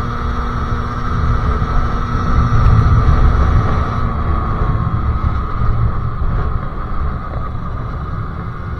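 Sherco SM-R 50cc two-stroke moped engine with a KRM expansion exhaust and Polini 17.5 carburettor, running at a fairly steady speed while riding. Wind buffets the microphone, most heavily a few seconds in.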